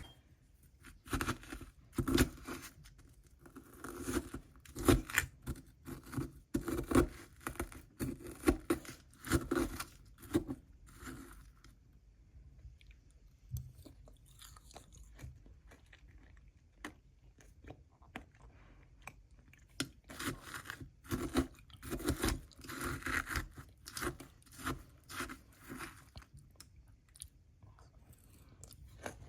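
Someone biting and crunching ice for patbingsu, in repeated clusters of crunchy chewing, with a quieter stretch in the middle.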